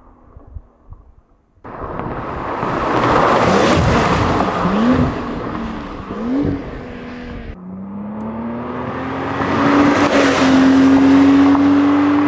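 Porsche 992 911's twin-turbocharged 3.0-litre flat-six running through a titanium aftermarket exhaust. It comes in loud about two seconds in, accelerating hard with the engine note twice climbing and dropping back at gear changes, then after an abrupt change it accelerates again with the pitch rising steadily.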